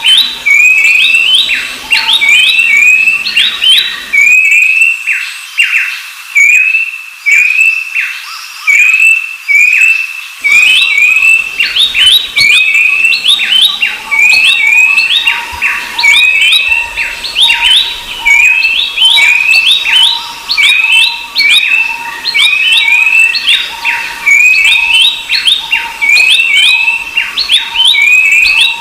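Babblers calling in a dense, continuous run of short, sharp whistled notes, several a second, overlapping one another.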